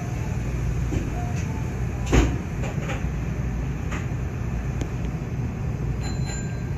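Nankai 8300-series electric train standing at a station, its equipment humming steadily low, with a single loud thump about two seconds in and a few faint clicks.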